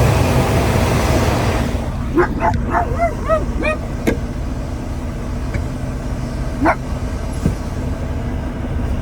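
A dog yipping and whining inside a semi truck's cab: a quick run of about eight short, high yips between two and four seconds in, and one more near seven seconds, over the diesel engine's steady low running. A hiss of air fades out in the first two seconds.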